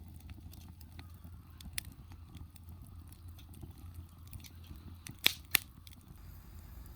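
Wood fire crackling with scattered small pops, and two sharper, louder pops a little after five seconds in.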